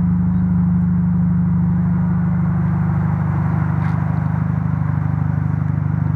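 A car engine running steadily at idle: a low, even hum.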